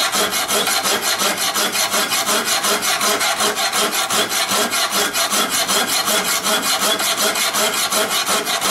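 Hand file rasping across the edge of a steel lawn mower blade in rapid, even strokes: sharpening a dull blade whose cutting edge has worn round.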